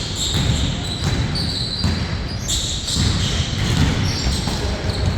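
Basketball bouncing on a court floor in repeated thumps during play, with short high-pitched squeaks of sneakers on the floor over it.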